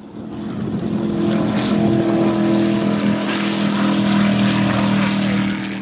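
A car engine running fast and steady as the car laps the track, a steady drone that swells over the first couple of seconds and fades out near the end.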